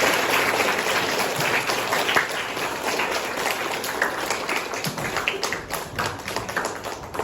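Audience applauding, many hands clapping at once, slowly dying away near the end.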